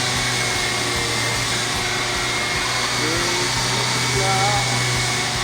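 An electric power tool runs steadily with an even motor hum and hiss, with no change in speed, while paint is being stripped from a boat hull.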